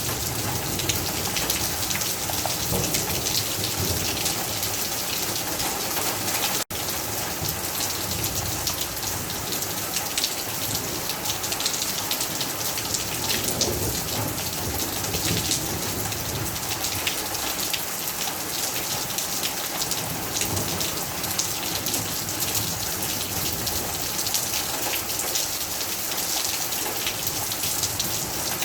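Heavy rain falling steadily, a dense hiss of many drops hitting surfaces. The sound cuts out for an instant about seven seconds in.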